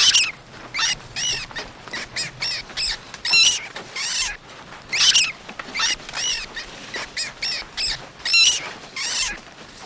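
An animal giving a series of short, high-pitched squeaking calls, about two a second, each rising and falling in pitch.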